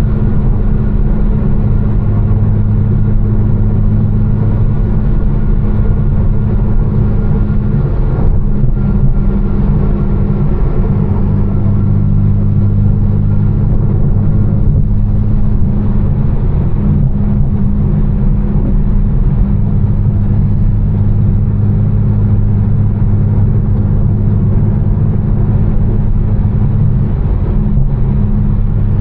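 Tuned BMW M4 with catless downpipes and a Fi exhaust, cruising at a steady speed: a constant low engine and exhaust drone over tyre and road noise on a rainy drive.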